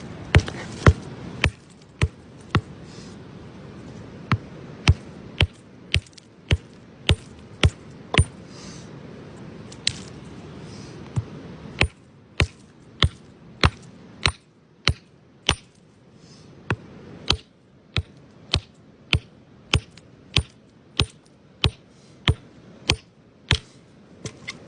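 Repeated sharp taps of a hammer on rock, mostly about two a second with short pauses between runs.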